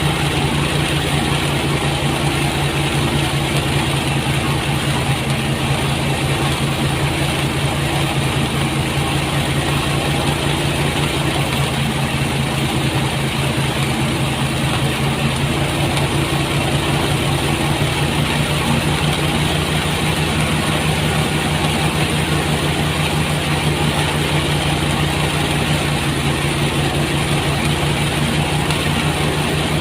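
Engine-driven rice threshing machine running steadily, a continuous even engine hum with the rush of the threshing drum.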